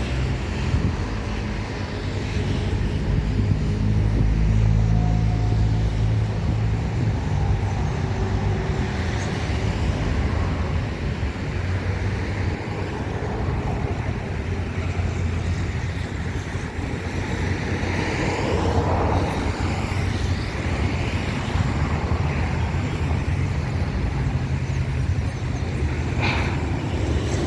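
Steady low rumble of a Boeing 737 MAX 8's jet engines, with a faint rising and falling engine tone.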